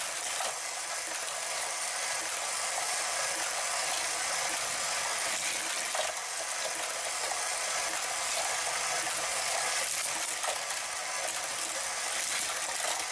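Motorized Hot Wheels Power Tower wall track running: its plastic gears and lift mechanism clatter steadily, with many small clicks from die-cast cars rolling through the plastic track.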